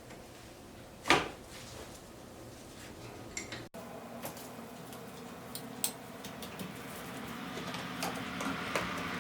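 Hand tools on metal while the 7/16 bolts around a garden tractor's gear case cover are undone: one sharp metal clank about a second in, then scattered light clicks and clinks.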